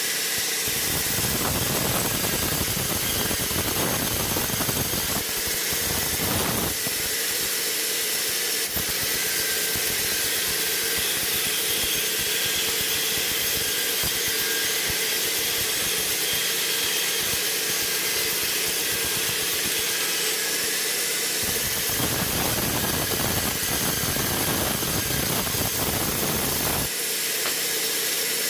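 Sawmill machinery running steadily: a loud, even hissing whir over a steady hum, with a heavier low rumble for several seconds near the start and again late on.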